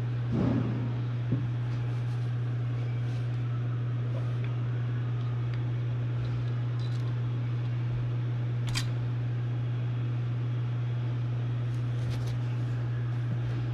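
A steady low mechanical hum throughout, with a few short clicks and clinks, about half a second in, near the middle and near the end.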